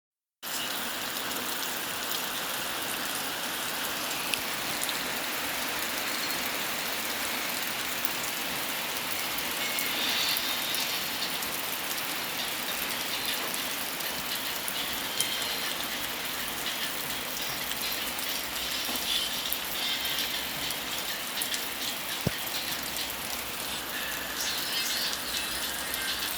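Steady rain falling, a continuous even hiss with a few faint drop ticks now and then.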